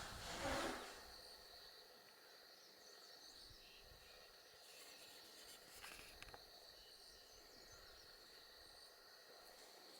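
Quiet outdoor ambience under a steady, high, thin insect drone, with a brief rustle in the first second and a few faint ticks about six seconds in.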